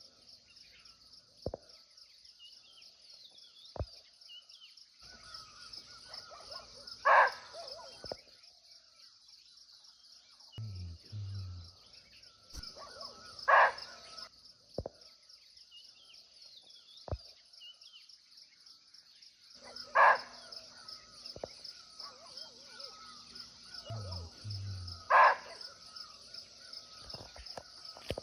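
Barking deer (muntjac) giving four short, sharp barks, about six seconds apart, over a steady chorus of insects.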